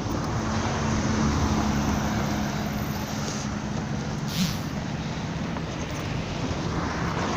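Road traffic passing close by: a steady engine hum for the first half, then a short hiss about four and a half seconds in.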